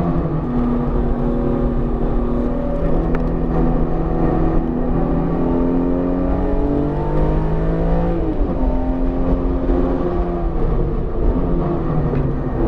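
BMW E46 M3's S54 inline-six engine, freshly built and still being broken in, pulling under throttle on track. The revs climb steadily, drop sharply about eight seconds in, then climb again and change once more near the end, over a steady low rumble of road noise.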